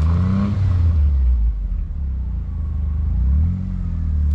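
Vehicle engine rumbling and revving up as it pushes through deep snow in two-wheel drive, struggling for traction; the revs rise near the start and again about three seconds in.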